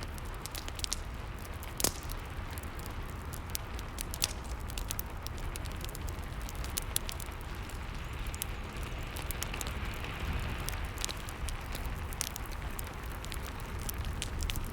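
Fireplace crackling, with frequent sharp pops and one louder snap about two seconds in, over a steady hiss of rain and a low rumble.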